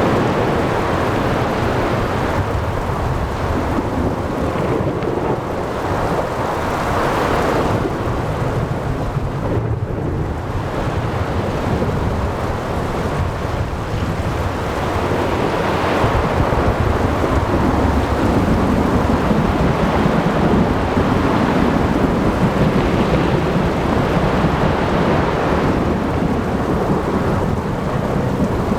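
Thunderstorm at sea: steady heavy rain with rolling thunder. The low thunder rumble swells and grows louder about halfway through.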